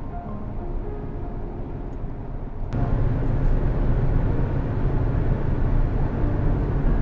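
Soft background music over a low, steady rumble like a vehicle running, which gets abruptly louder a little under three seconds in.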